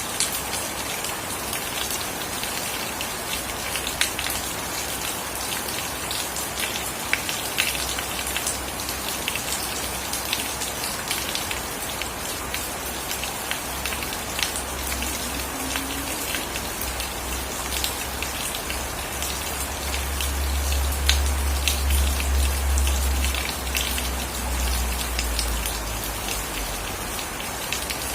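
Steady rain falling on surfaces, with scattered sharp drips and splats. A low rumble builds through the second half, loudest around twenty to twenty-five seconds in, then fades away.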